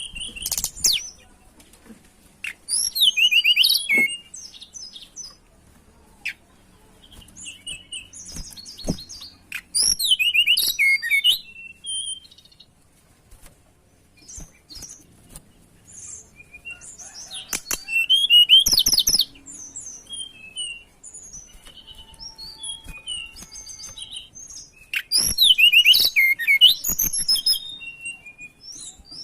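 Tledekan gunung songbird singing in breeding condition: loud song bursts of rapid, high, twittering trills, each lasting a second or two and coming about every seven or eight seconds, with soft scattered chips in between.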